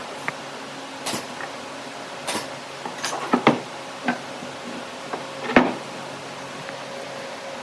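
Several irregular knocks and clunks, the loudest about five and a half seconds in, over a steady low machine hum.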